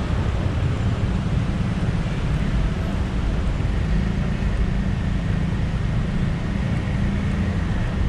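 Steady city road-traffic noise: a continuous low rumble of engines and tyres with no single vehicle standing out.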